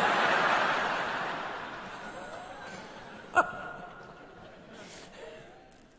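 Large audience laughing at a punchline: a loud wave of laughter that dies away over about three seconds, with a single sharp knock about three and a half seconds in.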